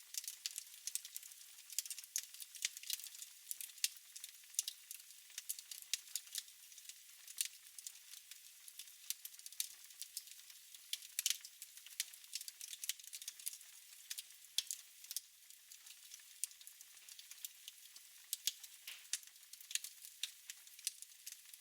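Wood fire in a fireplace crackling: many small irregular pops and snaps over a faint hiss.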